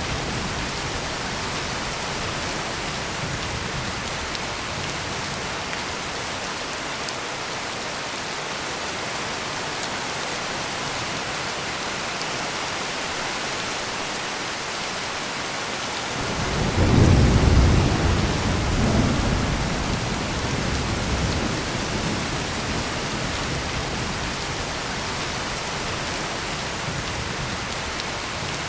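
Steady heavy rain falling, with a thunderclap about halfway through that breaks in suddenly and rolls away into a fading rumble over several seconds.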